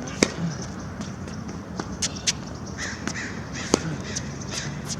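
Tennis balls being struck and bouncing during a baseline rally: sharp single pops of racket strings and ball on the court, the loudest just after the start and another near four seconds in. A few short harsh calls sound in the middle.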